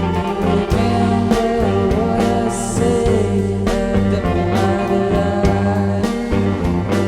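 Psychedelic rock band playing, with electric guitar over bass and a steady drum beat.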